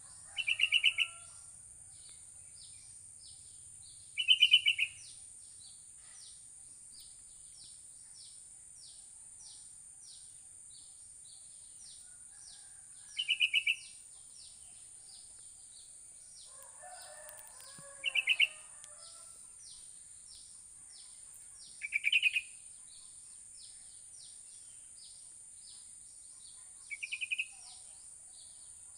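Sooty-headed bulbul (kutilang) singing short, quick-pulsed phrases, six in all, spaced roughly four to five seconds apart. Under the song run a steady high hiss and a faint, fast chirping.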